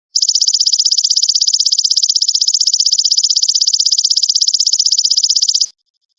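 Belalang emas (golden grasshopper) calling: a loud, high, rapidly pulsing buzz that starts just after the start, holds steady for about five and a half seconds and cuts off near the end.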